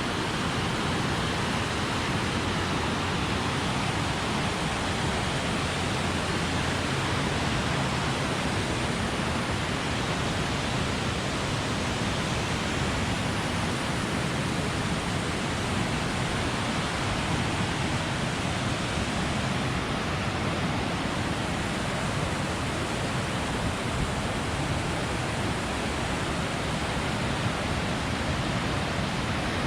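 The Smith River running high and fast near flood stage: a steady, unbroken rush of water.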